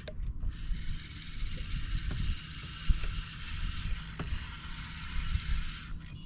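Fishing reel being cranked on a crankbait retrieve: a steady mechanical whir that stops shortly before the end. A few sharp knocks sound over a low rumble.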